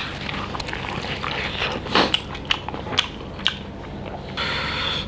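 Close-miked chewing of a mouthful of pork curry and rice, with irregular wet mouth clicks and a louder crunchy bite about two seconds in. Near the end there is a drink from a glass bottle, heard as a short steady hiss.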